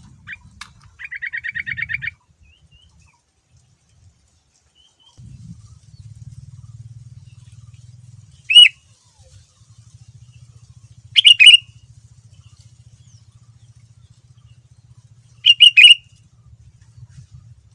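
Sooty-headed bulbul (kutilang) singing: a fast rattling trill about a second in, then three short, loud whistled phrases a few seconds apart. A faint low hum runs underneath.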